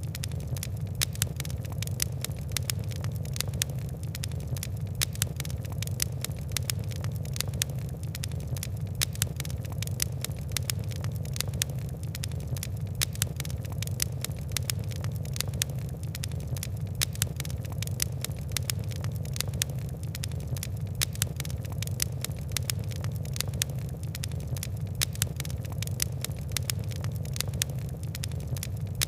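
Coal and wood fire crackling: a dense run of sharp ticks and pops, some louder than the rest, over a steady low rumble of burning.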